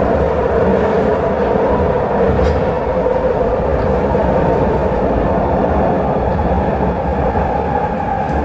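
Vancouver SkyTrain car running along the track, heard on board: a steady rumble with a steady hum over it.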